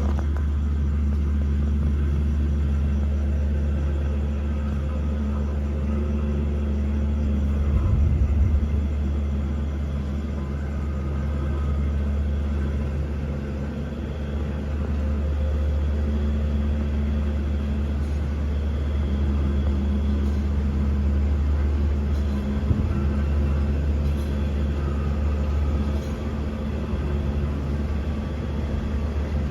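Diesel locomotive of a long-distance passenger train running with a steady low engine hum as the train departs, swelling briefly about a quarter of the way in, with one short knock later.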